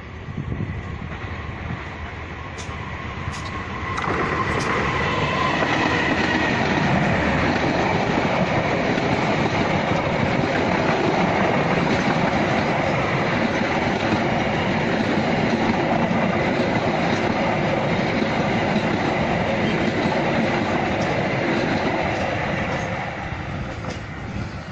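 A train passing close by: the locomotive and coaches rumble past for nearly twenty seconds, with the clickety-clack of wheels over rail joints. A few sharp clicks come as it draws level, and the sound eases off near the end as the last coaches go by.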